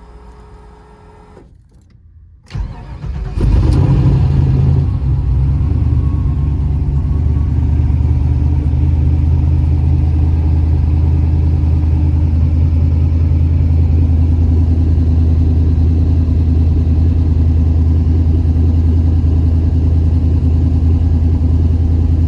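Car engine cold-started. A faint electrical hum cuts out about a second and a half in, there is a short crank, and the engine catches at about three and a half seconds. It runs higher for a second or two, then settles into a steady, loud fast idle.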